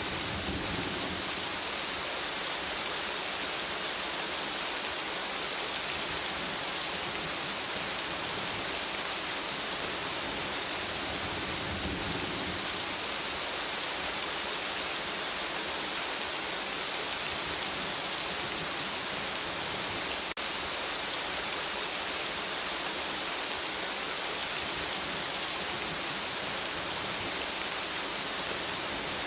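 Steady rain falling on forest foliage, a dense even hiss of drops. A brief low rumble swells about twelve seconds in, and a single sharp click sounds about two-thirds of the way through.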